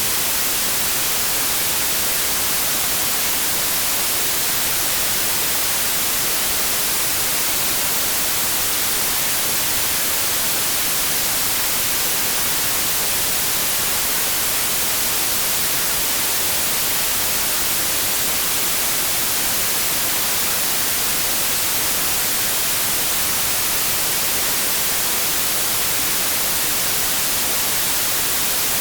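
Steady white noise: an even, unchanging hiss of synthetic static with no tones or events.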